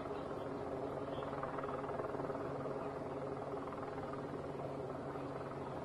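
A steady, unchanging engine drone, with faint voices in the background.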